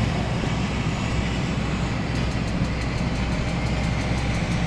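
Boeing 737's auxiliary power unit starting up: a steady rushing noise with low wind rumble on the microphone, and from about two seconds in a fast, regular high-pitched ticking.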